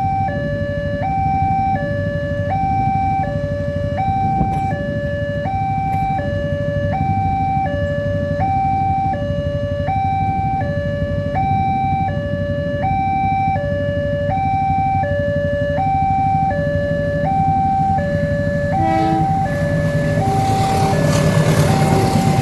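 Level crossing warning alarm sounding a steady two-tone signal, alternating high and low about once every second and a half. Low vehicle rumble runs underneath, and a broad rush of noise rises near the end.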